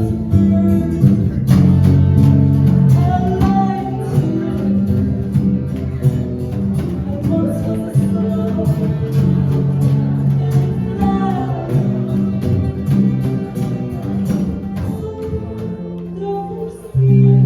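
Live band music: a voice singing over plucked guitar. About sixteen seconds in the music briefly drops back, then a loud held low chord comes in.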